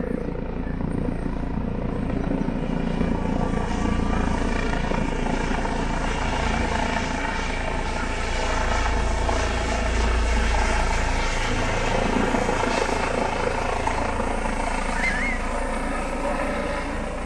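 Helicopter flying low overhead, its rotor and engine running steadily, growing loudest a little past halfway through.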